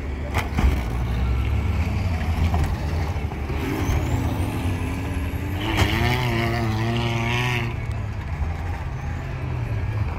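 Race cars' engines revving hard as they drive past one after another on a dirt track. A higher, wavering engine note runs from about four seconds in until nearly eight seconds in, with a sharp knock near the start.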